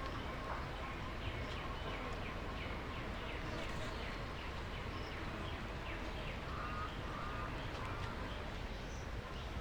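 Birds calling over a steady low background rumble: a quick run of short, falling, chirp-like notes at about three a second, then a few short lower notes near the end.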